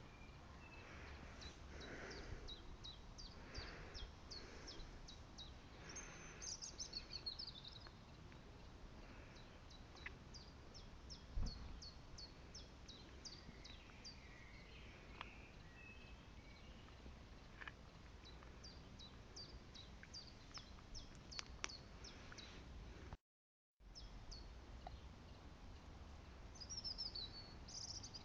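Faint outdoor quiet with small birds chirping in the background: many short, high, falling chirps, and a couple of longer twittering calls. A single sharp knock comes about eleven seconds in.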